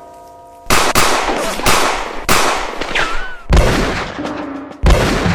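A series of gunshots, about six loud sharp cracks over four seconds, each with a long echoing tail, as in a film shootout.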